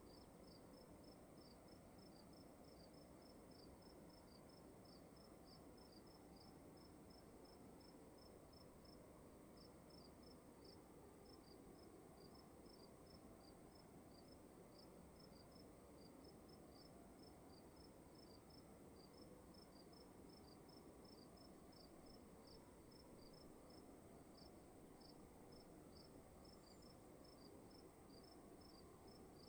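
Faint cricket chirping, short chirps repeating evenly about twice a second, with a steady high-pitched tone above them and a low room hiss beneath.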